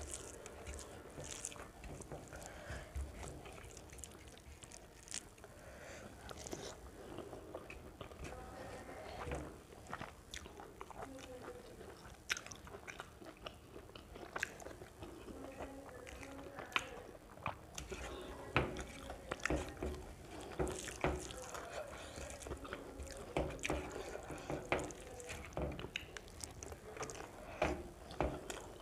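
Close-miked eating sounds: a person chewing mouthfuls of rice and curry eaten by hand, with wet mouth noises and many short clicks and ticks throughout.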